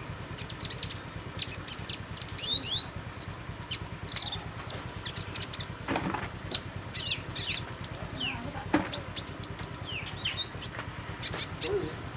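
Songbird calling: rapid clusters of thin, high chirps and short down-slurred notes.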